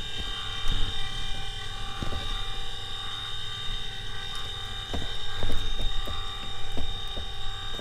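Clicks, knocks and creaks from the Cessna 150's manual engine primer being pumped in the cockpit before a cold start, over a steady high whine and low rumble.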